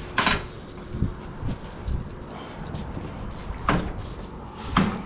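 Sharp clunks and knocks: one just after the start and two more near the end, with softer low thuds between them.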